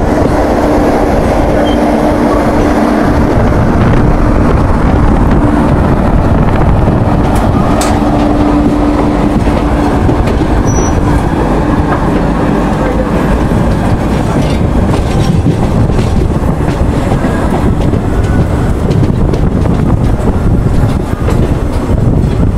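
Running noise of a moving ICF passenger coach heard from its open door: the wheels rumble and clatter steadily along the track. A steady tone runs through the first three seconds and again from about eight to ten seconds in.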